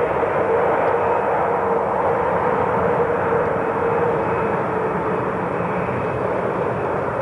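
Airliner engines running loud and steady: a rushing noise with a steady droning tone, easing off slightly over the second half.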